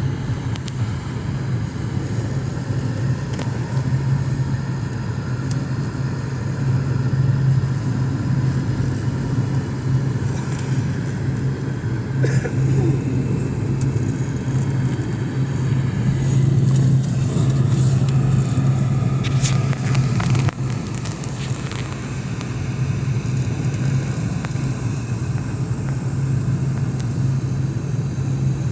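Steady cabin drone of a Boeing 717 in flight, its rear-mounted Rolls-Royce BR715 turbofans and the airflow giving a constant low hum under a noise hiss, with a few light clicks about halfway through.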